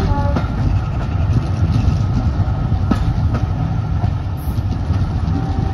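Passenger train carriage running along the line, heard from an open carriage window: a steady low rumble with a few sharp clicks from the wheels on the track.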